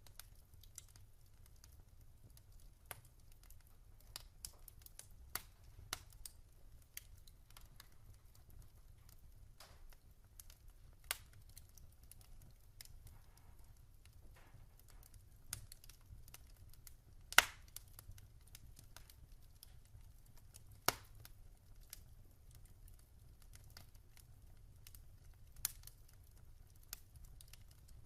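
Wood fire in a fireplace crackling: scattered sharp pops and snaps, one much louder about two-thirds of the way through, over a low steady rumble.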